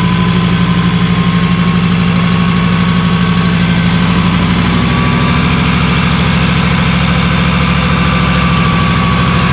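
Off-road 4x4's engine running steady at low revs, with a thin high whine rising slowly in pitch as it crawls along.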